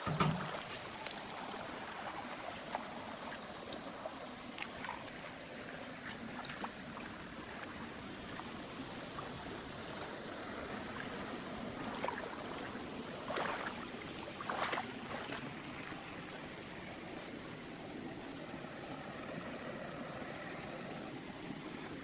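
Steady rush of flowing water, with two brief sharper noises a little over halfway through.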